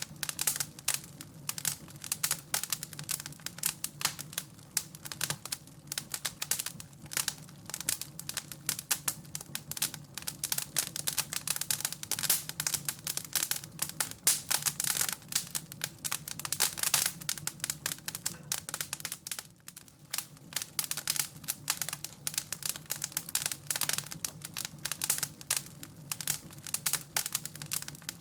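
Wood fire in a fireplace crackling, a dense, irregular run of pops and snaps over a steady low hum.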